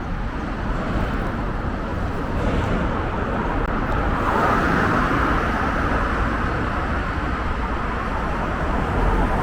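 Road traffic noise: a steady hiss of passing cars, swelling about halfway through as a car goes by.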